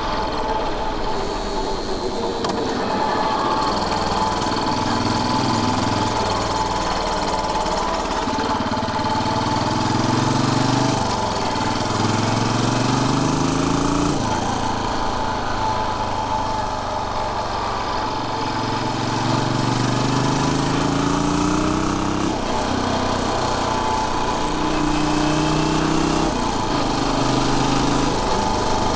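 Royal Enfield Bullet 500's single-cylinder engine running on the road, its revs climbing and then dropping back sharply several times.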